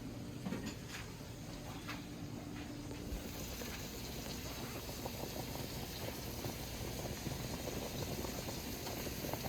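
A pot of smoked turkey necks boiling on the stove: a steady bubbling, crackling hiss that gets louder and brighter about three seconds in, with a few light clicks before that.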